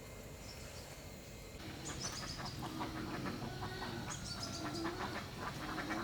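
Chickens clucking, with the calls growing busier about a second and a half in.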